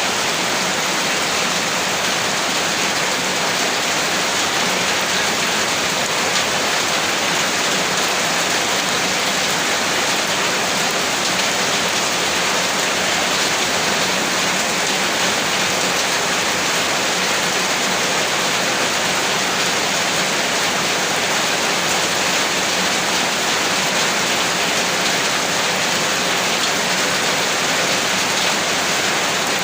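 Steady rain falling without a break: a dense, even hiss of drops.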